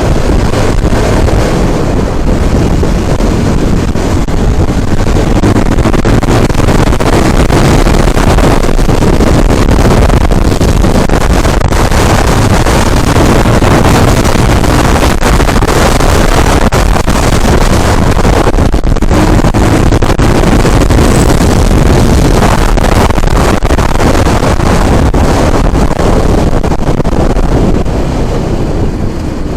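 Loud, steady rushing and rumbling noise of travel in a moving vehicle, with wind buffeting the microphone. It eases slightly near the end.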